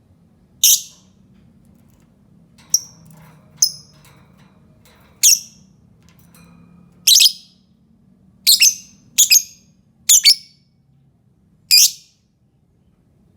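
Lovebird calling: short, shrill chirps, about a dozen spaced irregularly with some in quick pairs. This is a pancingan, a bait call played to set other lovebirds calling.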